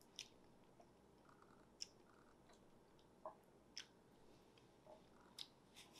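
Faint eating sounds of fufu with peanut soup eaten by hand: soft chewing with about half a dozen short, wet mouth clicks and smacks spread through.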